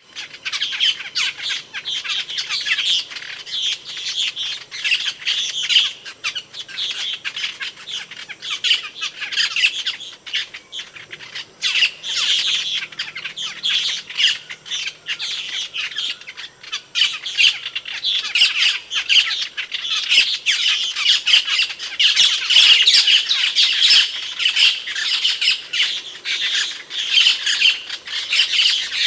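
Asian glossy starling calling: a rapid, unbroken string of short, high calls and chatter that swells and fades in loudness.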